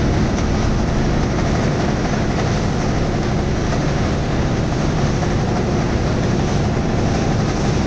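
A boat's motor running steadily, a constant low drone with no change in pace.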